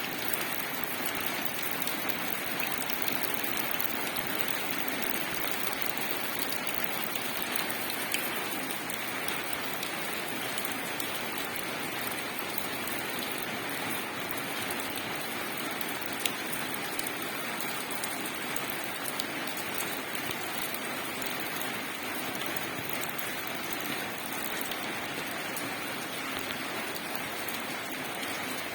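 Steady rain falling on and wetting foliage: an even hiss with scattered drop ticks, and a single sharper drip about eight seconds in and again past the halfway mark.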